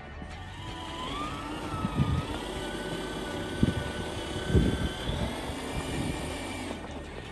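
Electric motor of a radio-controlled truck whining, rising in pitch about a second in and then holding steady, with a few thumps along the way.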